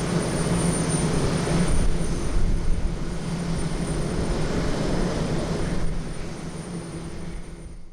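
Airbus A350-900 airliner landing, its Rolls-Royce Trent XWB jet engines making a steady, deep rumble that eases off about six seconds in and then cuts off abruptly.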